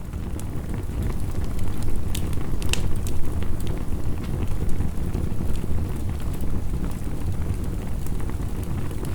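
Wood fire crackling, with sharp pops every second or so, over a steady low rumble of heavy rain.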